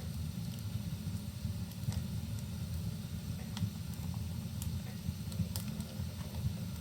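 Wood fire crackling in a fireplace, with a scattered sharp pop every second or so over a steady low rumble and a soft even hiss of rain.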